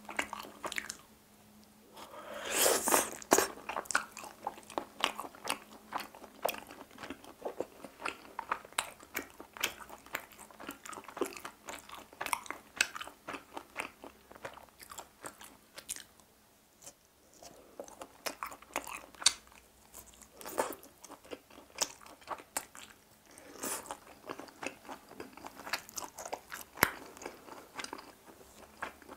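Chewing of chicken heart skewers: a dense run of small mouth clicks and smacks, loudest about three seconds in.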